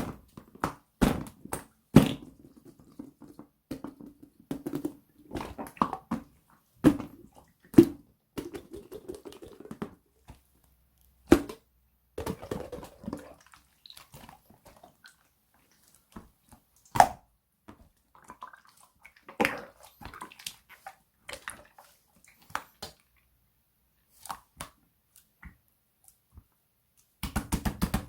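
Hands squishing and poking a soft, sticky toy material, likely slime, making irregular wet clicks, pops and short squelches.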